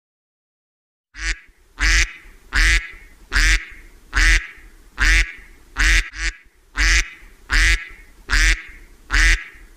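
Duck quacking in a steady series of about a dozen loud quacks, roughly one every three-quarters of a second, starting about a second in.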